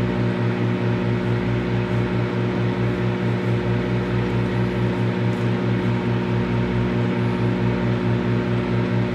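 Microwave oven running: a steady electrical hum with a fast, even pulsing in it.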